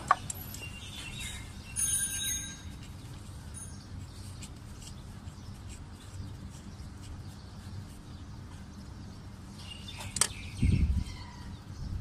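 Birds chirping in short bursts, with a sharp click at the start and a knock about ten seconds in from hands working on the engine.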